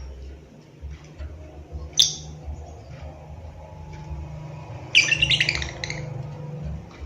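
Lovebird calling: one sharp, shrill chirp about two seconds in, then a rapid, loud run of chattering chirps lasting about a second near the end.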